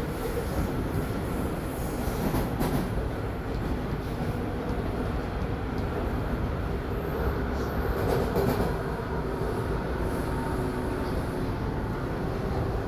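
Toronto Line 1 subway train running between stations, heard from inside the car: a steady rumble of wheels on the track, with a faint steady whine and a couple of brief clunks, about two and a half and eight seconds in.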